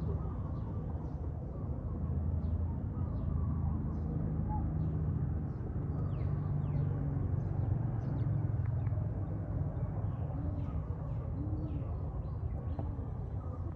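A steady low rumble outdoors, with faint, quick bird chirps repeating high above it throughout.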